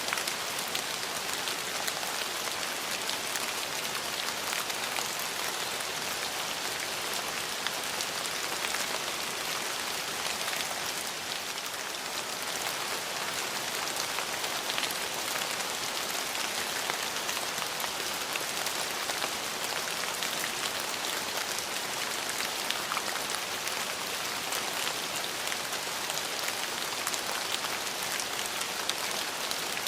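Steady rain falling, a dense even hiss with many small drop patters and no let-up.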